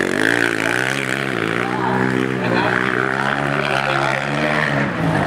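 Motocross bike engine running at high revs, its pitch wavering through the first second or so, then holding steady before dropping away near the end.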